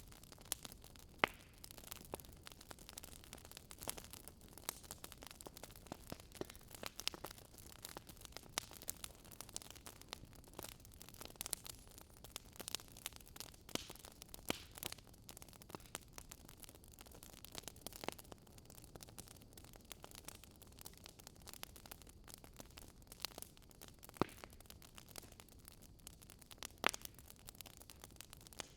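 Wood fire crackling: irregular snaps and pops over a soft steady hiss, with a few louder pops.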